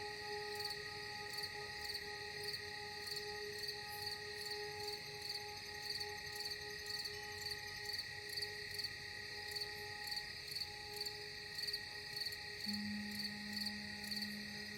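Crickets chirping in an even rhythm, about two to three chirps a second, over soft held tones of ambient music; a low held note joins near the end.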